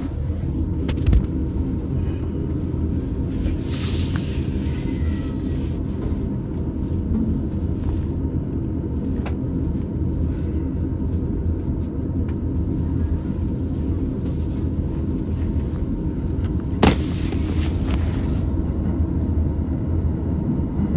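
Inside a Chuo Rapid Line E233-series double-deck Green Car in motion: a steady low rumble of the wheels on the track. A sharp click sounds about a second in, and another about four seconds before the end.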